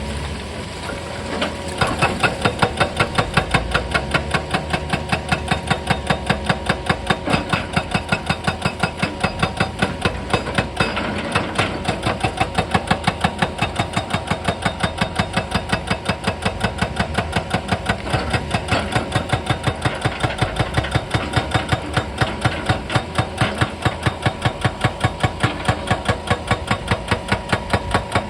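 Excavator-mounted hydraulic breaker hammering rock, a fast even pounding of about four to five blows a second that starts about two seconds in, over the excavator's running diesel engine.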